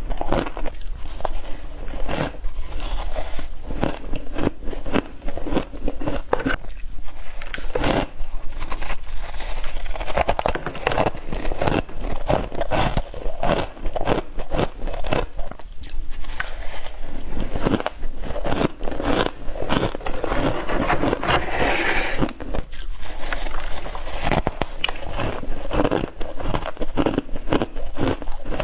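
Someone biting and chewing frost, with dense, rapid crunching and crackling throughout.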